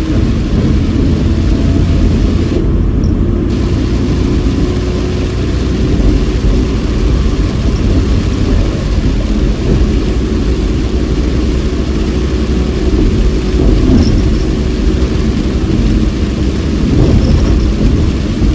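Inside a moving car in heavy rain: a loud, steady rumble of engine and tyres on a wet road, with rain hiss over it.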